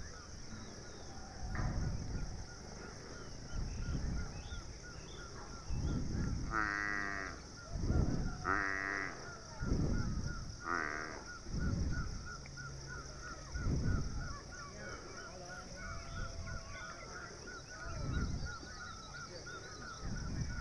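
Three short, wavering animal calls, like livestock, about two seconds apart, over a steady high hiss and recurring low rumbles.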